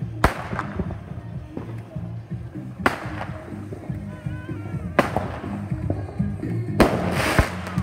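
Consumer fireworks going off: three sharp bangs about two seconds apart, then a louder, longer crackling burst near the end, over background music.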